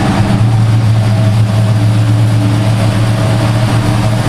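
Car engine running steadily, a loud, even low hum that holds one pitch.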